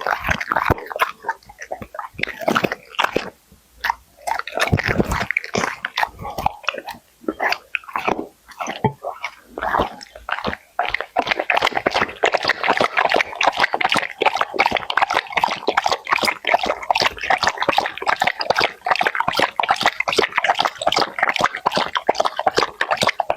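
A Labrador eating, with chewing and mouth smacks that come irregularly at first and become a dense, rapid run from about eleven seconds in.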